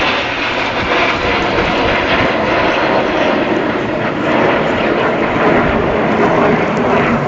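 Steady jet engine noise from the Red Arrows' BAE Hawk T1 jets flying in formation.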